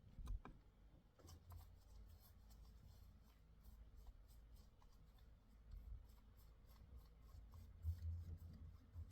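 Faint, irregular scratching with light ticks.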